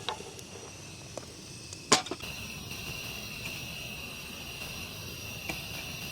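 A sharp click, the loudest sound, about two seconds in, then a steady high-pitched drone of insects that starts suddenly and holds one tone.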